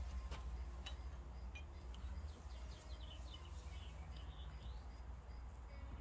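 Quiet background with a bird chirping faintly several times in the middle, over a low steady hum; a few faint light clicks in the first couple of seconds.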